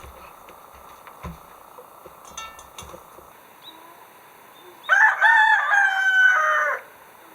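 A rooster crowing once: one loud crow of about two seconds starting about five seconds in, held level and dropping in pitch at the end. A few faint knocks come before it.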